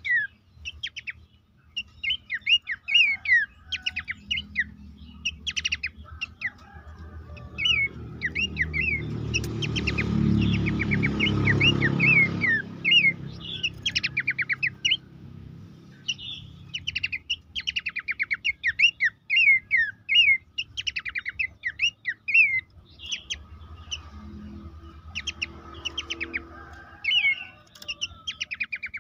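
Pelanduk semak, a small babbler, singing: bursts of quick, sharp, downward-sweeping chirps, repeated over and over. Around a third of the way in a rushing noise swells up and fades under the song.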